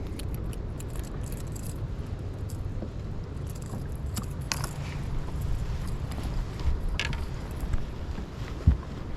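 Wind buffeting the microphone as a steady low rumble, with scattered small clicks and metallic rattles of fishing tackle being handled, and one sharp thump near the end.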